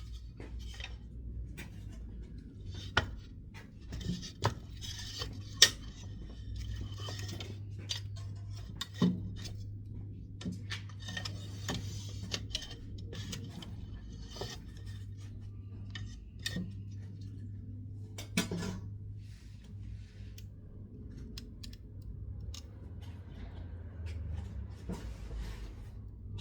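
Pine woodworking scraps burning in a wood-burning stove, crackling with irregular sharp pops and patches of hiss, over a steady low hum.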